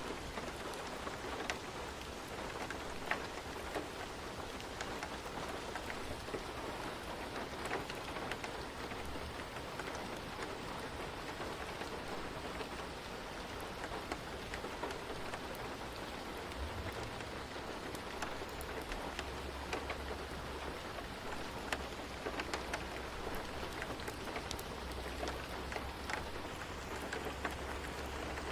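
Steady rain falling, with many individual drops ticking on a surface; a low rumble comes in underneath about halfway through.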